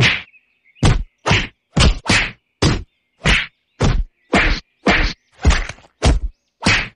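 A steady series of sharp, loud whacks, about two a second, some fifteen strikes in all.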